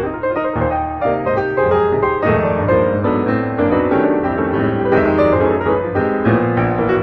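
Background piano music, a steady run of keyboard notes.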